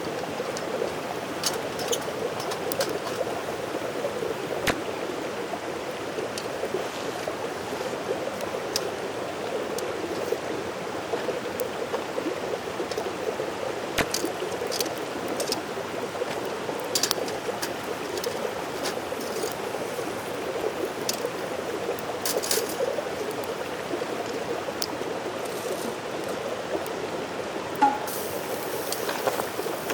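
Mountain stream running steadily, with scattered short sharp ticks over it.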